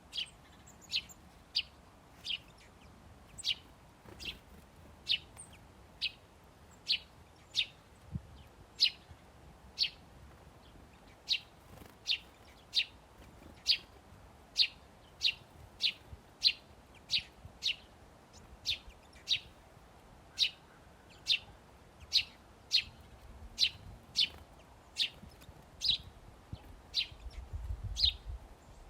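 A small songbird chirping over and over, short high chirps that each drop in pitch, about one to two a second in a steady series. A faint low rumble comes in near the end.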